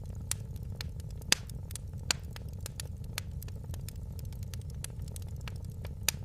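Wood fire crackling, with irregular sharp pops and snaps over a steady low rumble of the flames. The loudest pops come about a second in, about two seconds in, and near the end.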